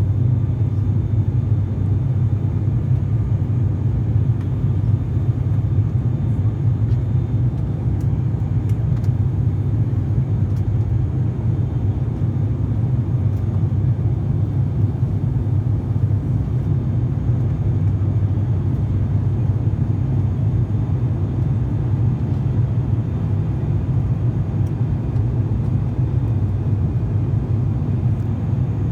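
Steady low drone of a turboprop airliner's engines and airflow, heard from inside the passenger cabin.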